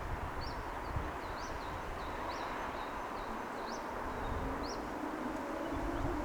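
A bird repeating one short, high chirp about once a second over the steady wash of city noise below. A low hum comes in during the second half.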